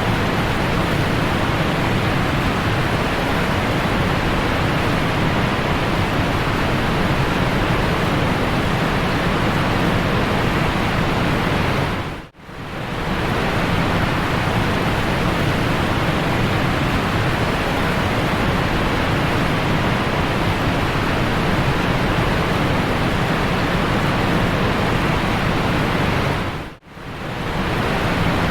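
Steady rushing of a waterfall, an even wash of water noise. It fades out briefly and back in twice, about twelve seconds in and near the end.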